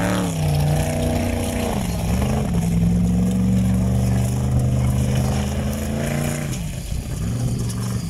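A big formula offroad car engine revving. There is a quick blip at the start, then it is held high for about four seconds before dropping back to a low run near the end.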